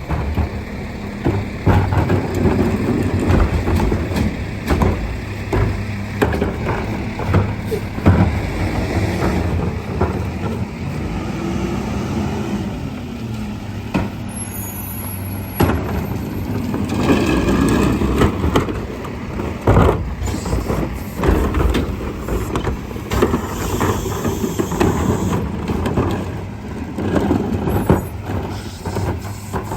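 Garbage truck engine running steadily, with repeated knocks and clanks over it and a brief high squeal about halfway through.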